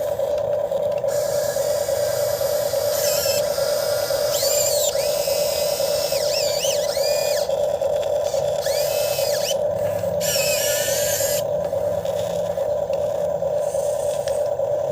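Model RC excavator running with a steady electric whine, while higher motor whines rise and fall several times as the machine works.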